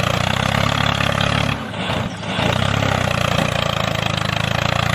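Tractor engine running steadily at a low pitch, dipping briefly about two seconds in.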